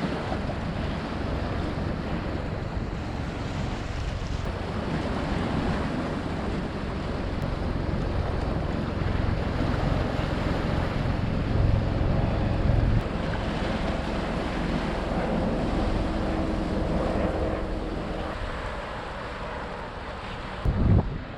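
Wind buffeting the microphone over a steady rushing wash like surf, heaviest in the low rumble. There is a brief louder low buffet near the end.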